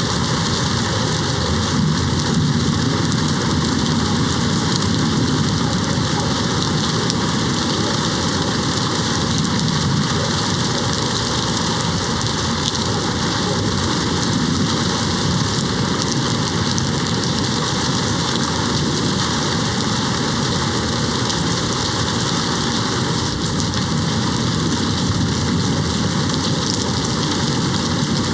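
Steady rain falling against a window: an even, unbroken hiss with no single drops or cracks standing out.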